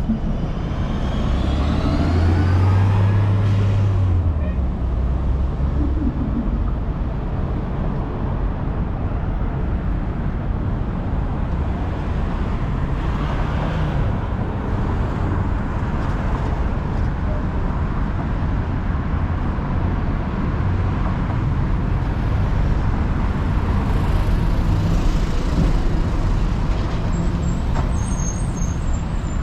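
City street traffic with heavy vehicles such as buses and trucks running close by and a continuous low engine hum. About a second in, a rising whine climbs in pitch as a vehicle pulls away. Near the end there are a few short high-pitched squeaks.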